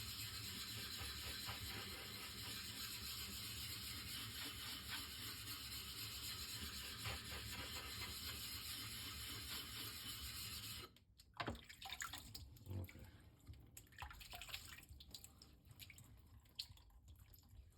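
Water tap running steadily, likely wetting a whetstone; it shuts off suddenly about eleven seconds in, leaving scattered light clicks and knocks.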